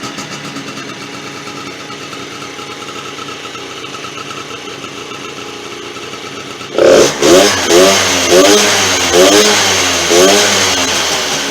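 Small engine of a Yunari ATV50 quad running at idle, then about seven seconds in it is revved with several quick throttle blips, the pitch rising and falling with each, before easing back down.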